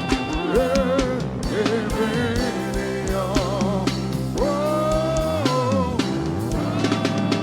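Live praise-and-worship music: voices singing over a drum kit and bass, with drum hits on a steady beat.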